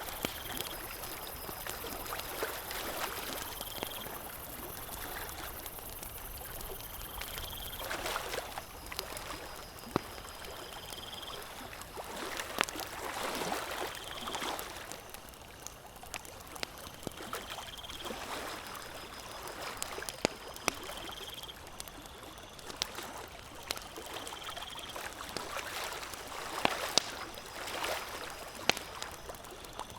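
Campfire crackling with sharp pops over gently lapping lake water that comes in soft swells. A faint high chirp repeats every second or two.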